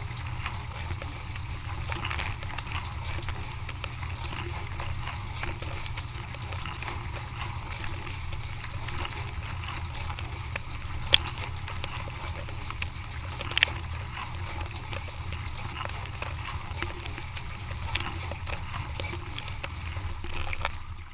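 Dishwasher running a wash cycle: a steady low pump hum with water spraying and trickling inside, and two sharp knocks about halfway through. The sound drops away right at the end.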